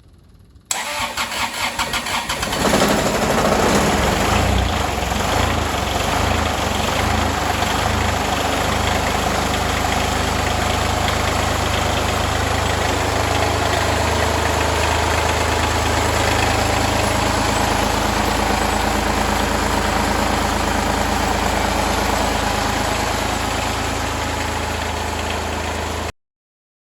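Kubota BX2380's three-cylinder diesel cold-starting at about 4 below zero: the starter cranks for about two seconds, the engine catches, then settles into a steady idle.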